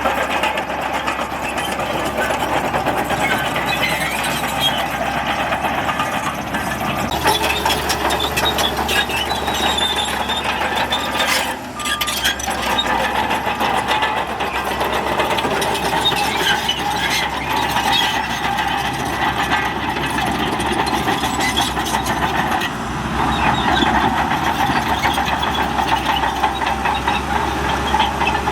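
Heavy diesel earthmoving machinery running steadily. The engine noise dips briefly about twelve seconds in and grows louder for the last few seconds.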